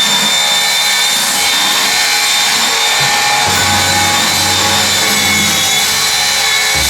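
Power tool running steadily, a continuous sawing noise.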